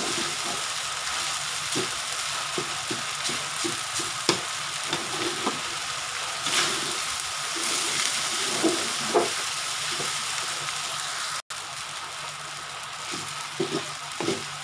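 Fried rice sizzling in a hot metal wok, steadily hissing while a metal slotted spatula stirs and turns it, with frequent sharp clicks and scrapes of the spatula against the pan.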